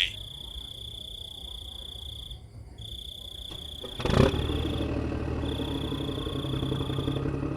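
A small motor starts suddenly about four seconds in and runs steadily at an even pitch, likely the drive of a homemade mini tractor. Behind it, a high insect trill continues throughout, broken by short gaps.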